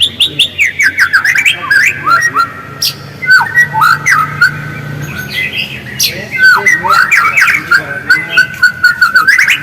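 White-rumped shama (murai batu) singing: a fast, unbroken run of whistled notes sliding downward, held whistles and sharp chattering ticks.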